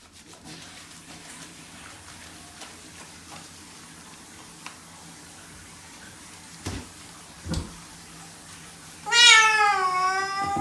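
A Bengal cat gives one long, loud meow near the end, starting high and sliding down in pitch before levelling off. Two dull thumps come a second or two before it.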